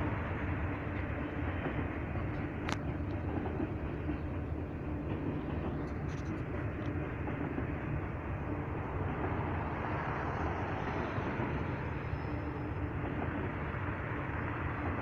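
A freight train's cars rolling steadily past on the rails, an even noise of wheels on track, with one sharp click a little under three seconds in.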